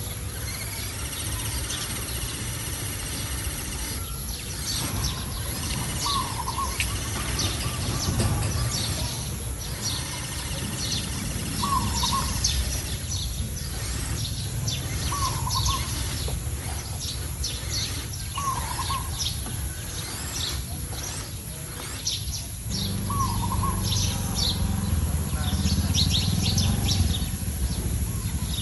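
Birds chirping, with one bird repeating a short wavering call every three to four seconds, over a steady low rumble that grows louder near the end.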